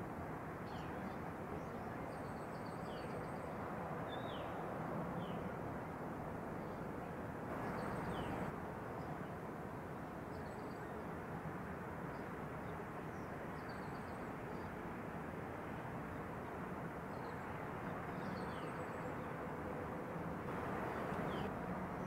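Small birds chirping again and again, short high calls that drop in pitch, over a steady background rumble and hiss that swells briefly twice.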